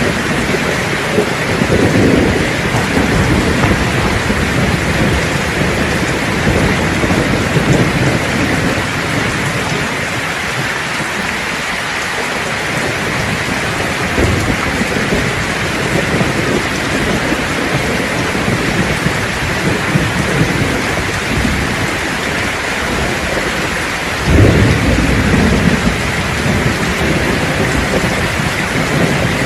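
Steady heavy rain with rolling thunder: low rumbles swell near the start, and a louder thunderclap breaks in near the end and rumbles on.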